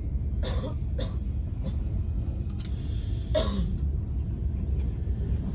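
Steady low rumble of a Trenitalia double-decker regional train running, heard from inside the carriage, with three brief sharp sounds about half a second, one second and three seconds in, the last one falling in pitch.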